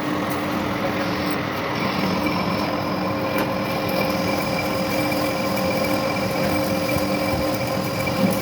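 A workshop machine running steadily: a constant whine made of several steady tones over an even rushing noise.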